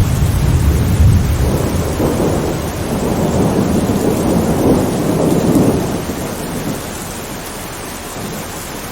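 Thunder rumbling and rolling over steady rain, swelling for the first six seconds and then dying away, leaving only the even hiss of rainfall.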